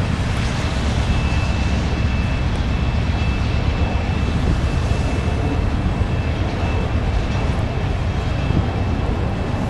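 Freight train rolling past: a steady, loud rumble of the cars on the rails and the diesel locomotives' engines, with a thin high squeal from the wheels that comes and goes.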